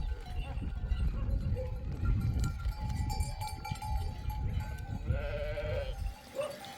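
Sheep bleating, with one wavering bleat near the end, over a low rumble that stops about six seconds in.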